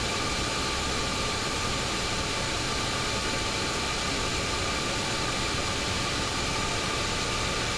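Steady cockpit noise of a Boeing 727 on approach with gear and flaps down: an even rush of air and engine sound with a faint steady whine mixed in.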